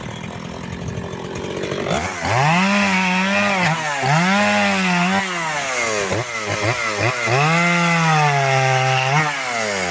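Gasoline chainsaw cutting firewood logs into lengths. It runs quieter at first, then from about two seconds in it is held at full throttle, with the engine note sagging under load and picking up again through several cuts. Near the end it drops back toward idle.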